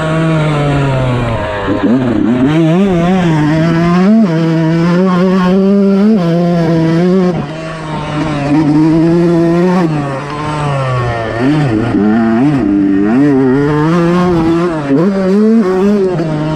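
Fantic 125 motocross bike's engine being ridden hard: revving up, its pitch climbing and falling as the rider shifts and opens the throttle, with the throttle rolled off briefly several times and then opened again.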